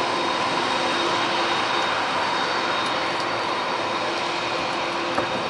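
Turbofan jet engines of a Boeing 767 (GE CF6-80C2) running steadily: a broad rushing hiss with several steady whining tones, easing off slightly toward the end.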